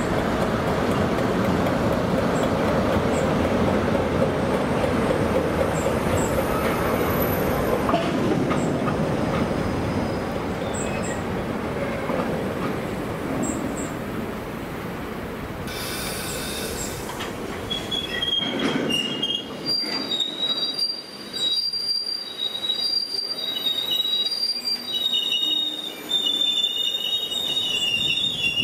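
A train passing close by, with a steady rumble of wheels on rail. About two-thirds of the way through, the sound changes abruptly and a high-pitched, wavering wheel squeal sets in over light clicking of the wheels.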